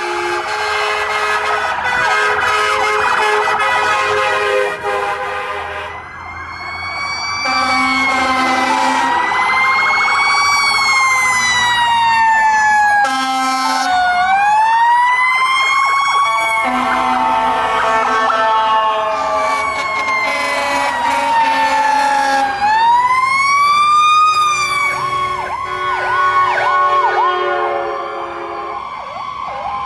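Fire truck sirens sounding together: a mechanical siren, of the Federal Q type, winds up and then coasts slowly down in pitch several times over other steady siren tones. Air horn blasts of a second or two come three times.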